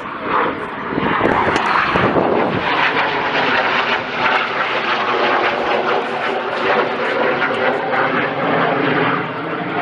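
Eurofighter Typhoon jet at high power, likely on take-off: a loud, rough roar with a crackling texture that builds over the first second and then holds steady. The Typhoon has two turbofan engines.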